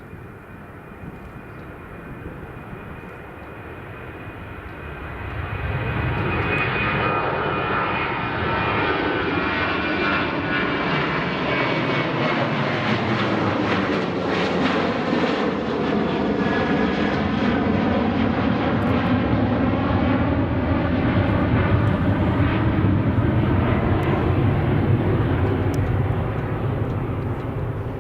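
Boeing 747-8F freighter's four GEnx jet engines as the aircraft passes close by. A high whine over the engine noise grows louder about five seconds in, then the loud jet sound holds steady and eases slightly near the end.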